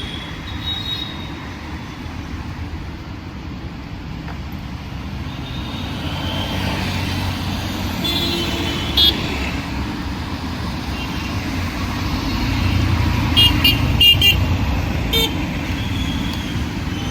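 Busy road traffic: a steady rumble of passing vehicles' engines that swells about three quarters of the way through, with short vehicle horn toots about halfway in and a cluster of several quick toots soon after the swell.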